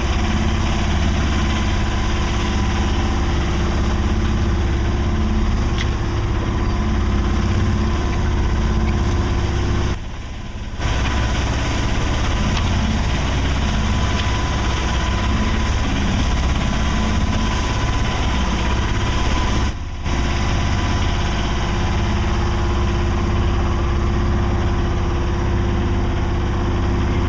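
A sailboat's auxiliary engine running steadily under way, a constant low rumble with a steady hum, dropping briefly twice.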